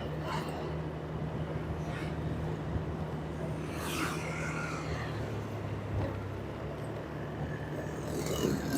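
Vehicle engine running steadily on the road, with a steady hum and road noise. A brief higher-pitched sound comes in about four seconds in.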